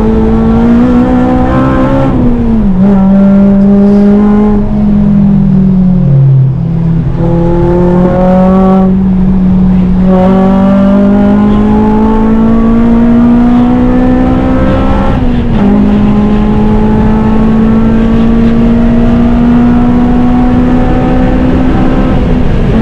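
Honda Civic Type R's four-cylinder engine running hard on track. Its note climbs steadily and drops back sharply several times as it changes gear, and sinks lowest about six seconds in before climbing again.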